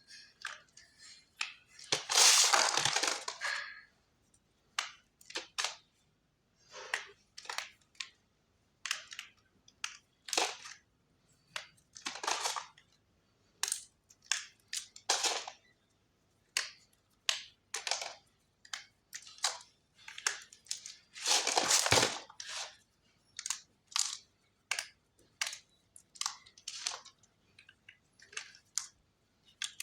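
Khadiya (chalk) being crushed and crumbled, a long series of short, separate crunches. Two longer, louder crunches come about two seconds in and again about two-thirds of the way through.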